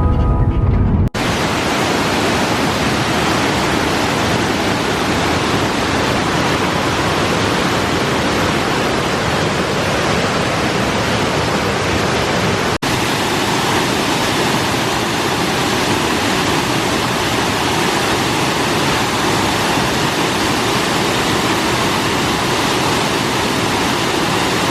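Waterfall: a steady rush of falling water, with a momentary dropout about halfway through.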